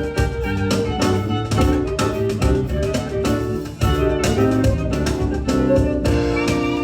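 Live ensemble music with bowed strings playing held melody notes over a steady beat.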